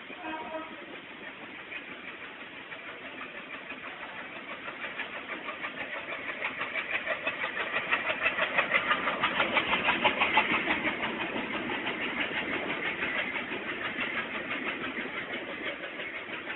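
Express train running into a station: a fast, even rhythmic pulsing that grows louder, is loudest a little past the middle as it comes closest, then eases.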